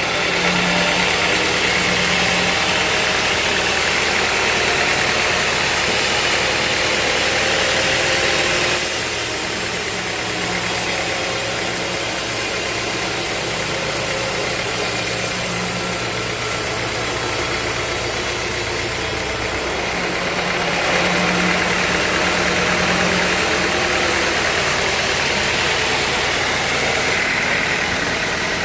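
Band sawmill running: a steady motor hum under a broad hiss. It is louder for the first third and again from about two-thirds of the way through.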